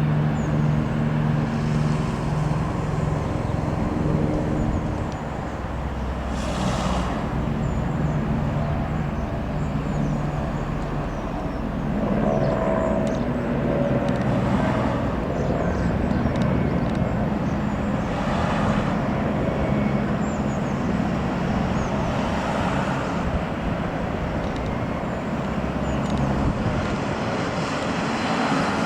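Steady engine hum over a continuous rumble of vehicle noise, swelling and easing slightly.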